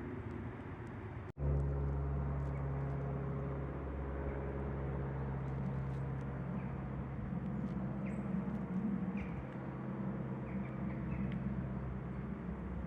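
Woodland ambience: a steady low rumble of distant road traffic, which cuts out for an instant about a second in, with a few faint short bird chirps in the second half.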